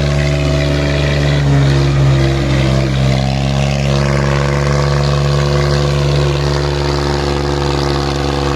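Swaraj 735 tractor's three-cylinder diesel engine running steadily under load, hauling a fully loaded trolley.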